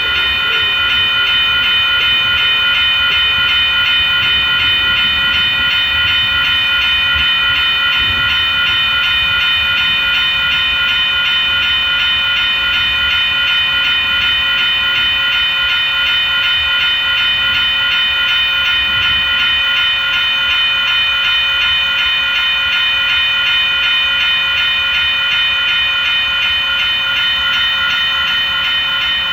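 Train passing at close range, a steady rumble with several high-pitched ringing tones held throughout.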